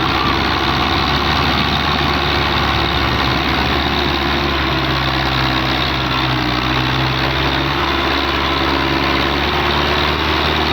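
Massey Ferguson 260 tractor's diesel engine idling steadily.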